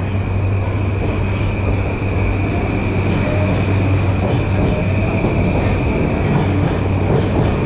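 Electric commuter train running along a station platform: a steady rumble, with wheels clicking over rail joints from about three seconds in.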